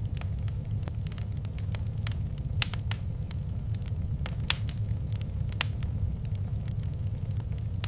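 Wood fire crackling in a fireplace: irregular sharp pops and clicks over a steady low rumble, with a few louder snaps about two and a half, four and a half and five and a half seconds in.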